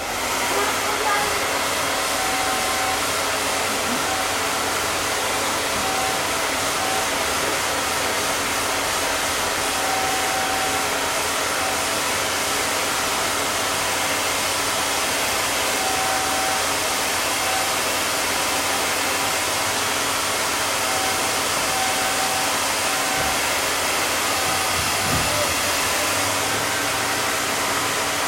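Handheld blow dryer switched on and running steadily, a constant rushing hiss.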